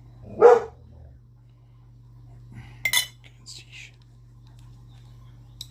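A metal utensil clinking and scraping against a dish as bird food is mashed, with one sharp ringing clink about three seconds in and a few light scrapes after it. A short vocal sound comes about half a second in.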